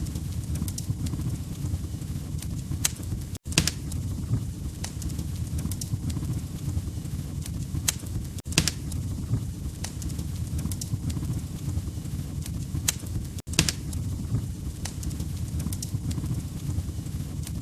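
Log fire crackling: a steady low rumble of burning wood with scattered sharp pops and snaps. The sound drops out briefly about every five seconds.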